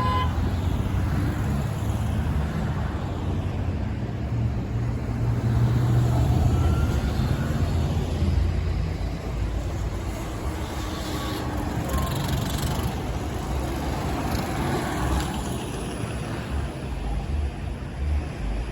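Norfolk Southern train rumbling steadily along the rails, a deep low rumble that swells about a third of the way in, with a few brief faint high squeals near the middle.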